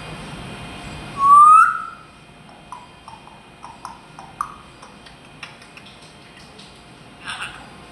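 A parrot gives one loud rising whistle about a second and a half in, followed by scattered soft clicks and short chirps.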